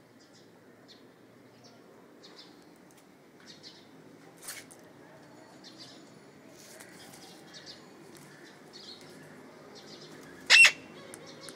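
Pet parrots making many short, faint chirps, with one loud, sharp call near the end.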